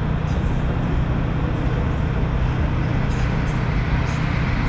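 Steady low hum and rumble of a train, with even noise over it.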